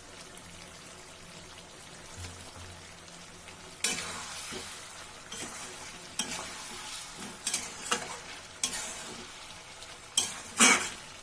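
Chicken frying in a kadai with freshly added ground spices, a steady sizzle, then from about four seconds in a utensil stirring and scraping it round the pan in repeated strokes, the loudest near the end.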